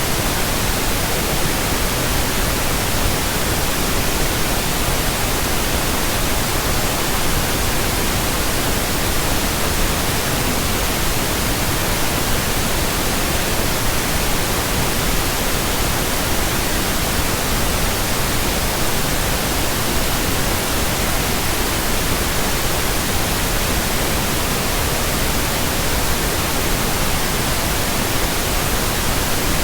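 Steady pink noise: an even, unchanging hiss spread across the whole frequency range, with no breaks or changes.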